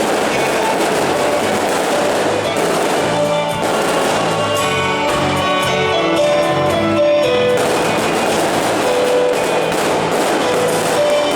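Fireworks display crackling densely under loud music. The crackle thins for a few seconds in the middle while the music's notes come forward, then thickens again.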